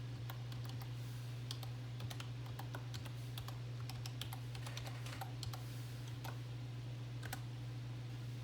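Typing on a computer keyboard: irregular key clicks, entering a Microsoft account email and password. A steady low hum runs underneath.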